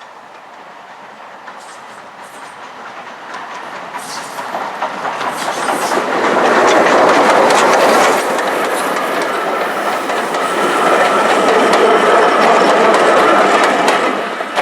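A train passing on a preserved railway line, its wheels clicking over the rail joints. It grows louder over the first six seconds, stays loud, and falls away near the end.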